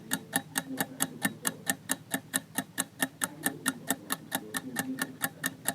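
Clock-ticking countdown sound effect: fast, even ticks, about six a second, over a faint low drone.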